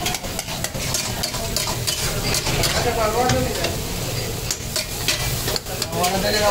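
Mutton karahi sizzling and frying in a karahi (wok), with a metal spatula scraping and clicking against the pan as it is stirred.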